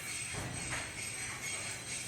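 Faint metallic jingling, soft and uneven.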